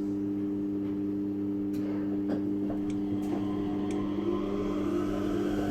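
Yurikamome 7300-series rubber-tyred automated train with a steady electrical hum and a few light clicks. A whine starts to rise about four seconds in as the train begins to accelerate.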